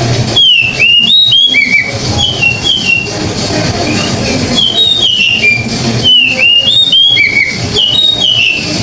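Oriental magpie-robin (kacer) singing loud, clear whistled phrases of short downward-slurred notes in two bursts, mixed with sharp clicks. This is the full, open-voiced song that kacer keepers use as a tutor recording for other birds.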